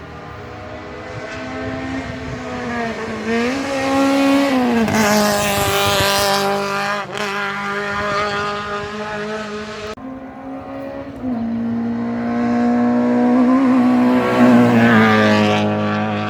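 Historic racing car engines accelerating hard past the microphone on a hillclimb, the engine note climbing and dropping back at each gear change. One car passes loudest about five seconds in, and after a break about ten seconds in a second car comes through, loudest near the end.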